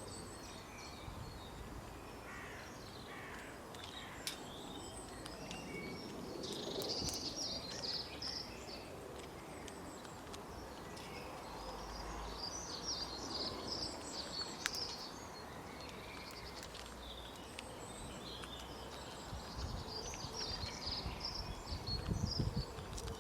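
Outdoor ambience with small birds chirping in repeated bursts over a steady background hiss, a few sharp clicks, and some low thumps near the end.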